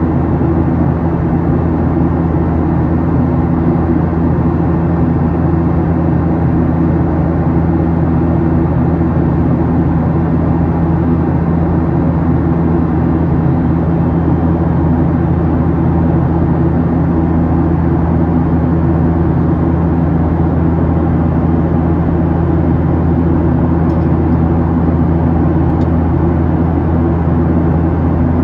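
Steady cabin noise of a Boeing 737-800 in its climb, the low rumble of its CFM56-7B turbofans and the rush of air past the fuselage heard from inside the cabin. It holds level and unbroken throughout.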